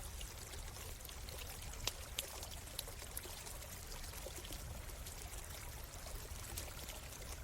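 A stream flowing and trickling steadily, with scattered sharp crackles and pops from a wood campfire; the loudest two pops come about two seconds in.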